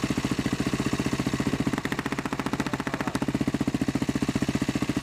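Single-cylinder motocross motorcycle engine idling close by, with a steady, even pulsing beat.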